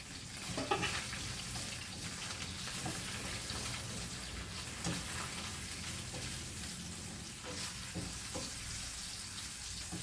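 Garlic and onions sizzling steadily in a little cooking oil in a frying pan, with occasional clicks and scrapes of the utensil against the pan as they are stirred.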